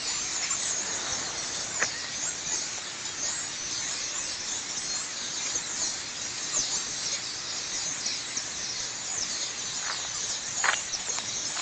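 A huge flock of birds massed in trees, all calling at once: a dense, steady chorus of high squeaky chirps, with a short sharp click near the end.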